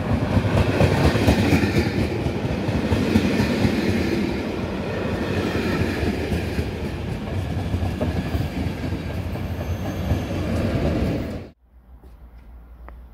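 A České dráhy passenger train passing through the station without stopping, its coaches rumbling steadily past on the rails. The sound cuts off suddenly about eleven seconds in, leaving only faint background noise.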